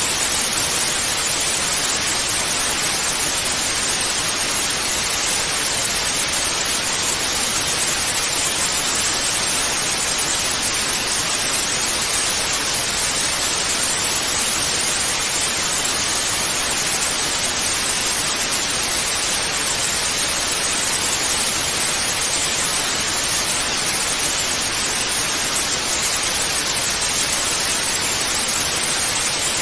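Television static (white noise): a steady, even hiss with no changes, brightest in the upper range.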